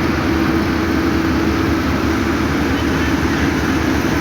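Heavy road-construction machinery engine running steadily: a constant low drone with a held hum, no change in speed or load.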